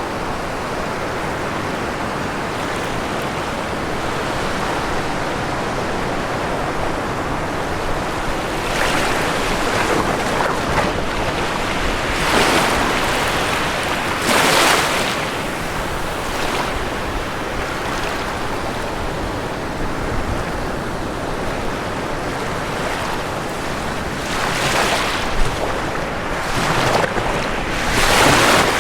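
Ocean waves breaking on a shore, a steady wash of surf with several louder breakers rushing in over it, the strongest near the middle and near the end.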